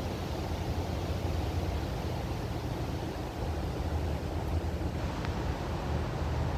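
Wind buffeting the microphone: a steady, rushing rumble, heaviest in the low end, with no gaps.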